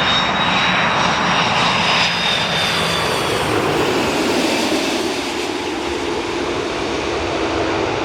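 Airliner engines running loud as the aircraft passes close, a steady rushing noise with a high whine that slides slightly down over the first three seconds.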